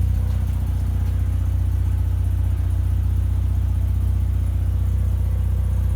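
Car engine running steadily with a deep, even rumble that sounds like a tractor.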